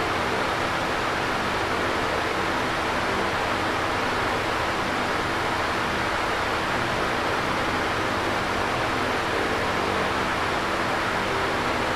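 Electric fan running steadily: an even rush of moving air with a faint low motor hum underneath.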